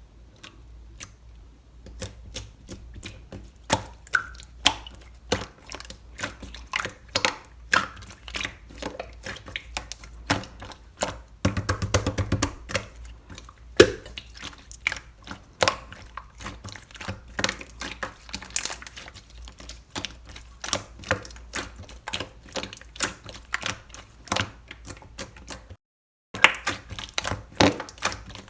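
Milk slime being squeezed and poked by hand, making a string of irregular sharp clicks and pops, with a denser crackling run about eleven seconds in.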